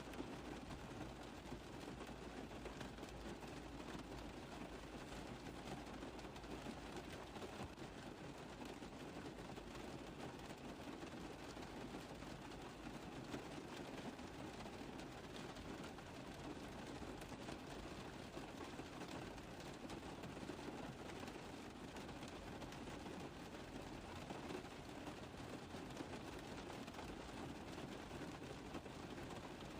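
Rain pattering on a car roof, a steady dense mass of small drop impacts with no letup.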